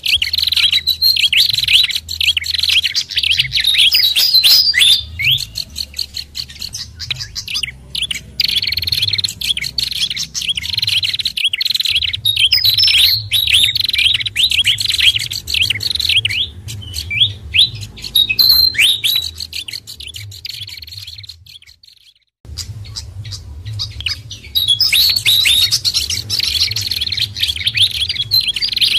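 Bird-lure recording of many fast, overlapping high chirps and twitters from a mixed track of fantail (sikatan kipas), babbler (pelanduk bukit) and prenjak kepala merah calls. About two-thirds of the way through, it fades almost to silence for a moment, then starts again at full level as the track loops.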